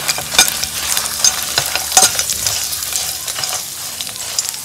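Dried chiles de árbol and garlic with allspice and cloves sizzling in a hot pan as they are stirred, with a few sharp clicks of the utensil against the pan.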